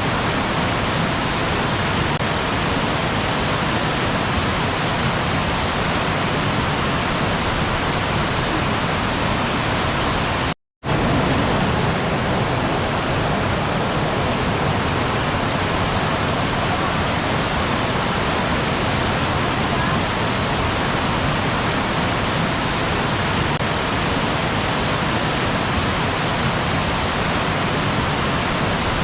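Waterfall rushing as a steady, dense roar of falling water, cutting out to silence for a split second about ten seconds in before resuming.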